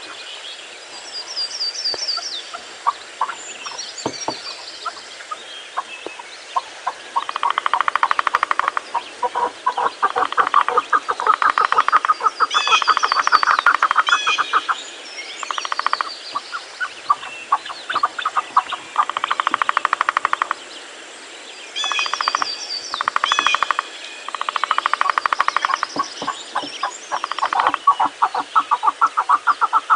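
Birds calling: repeated runs of rapid pulsed calls, each lasting a second or more, with short high trills over them.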